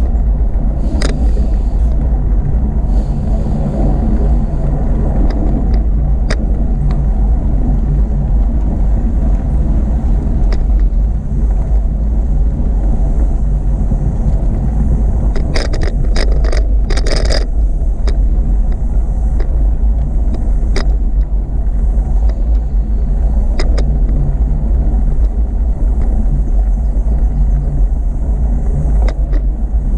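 Wind rumbling steadily on the microphone of a camera riding along on a moving bicycle. Short clicks and rattles come now and then, with a cluster of them about sixteen seconds in.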